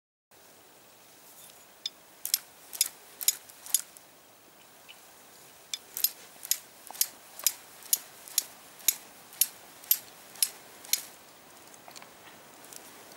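Steel striker scraped against flint to throw sparks: sharp metallic clicks, a quick run of five, a pause, then a steady run of about two strikes a second.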